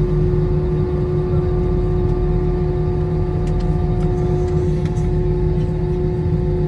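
Airbus A321 jet engines running, heard inside the passenger cabin as a steady low rumble with a constant hum over it.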